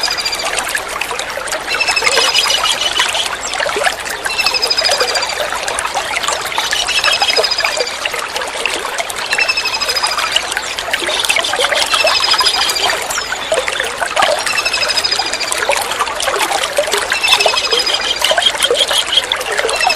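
Tengkek udang (small kingfisher) calling over continuously trickling water. Each call is a short, high, thin descending note, some followed by a brief rattling trill, repeated about every two and a half seconds.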